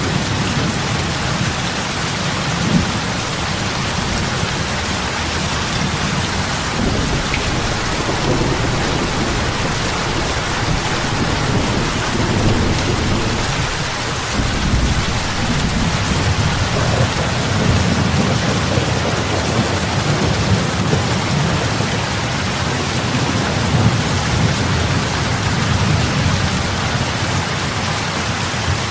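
Steady heavy rain falling on lake water, a dense hiss of drops with a deep low rumble swelling and easing beneath it.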